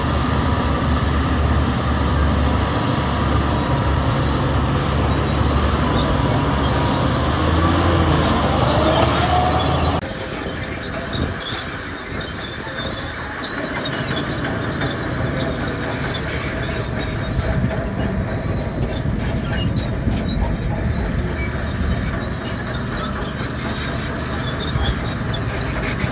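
Heavy tracked construction machinery at work: a diesel engine running with metallic squealing and clanking. The sound changes abruptly about ten seconds in, from a loud low engine to a quieter, noisier clatter.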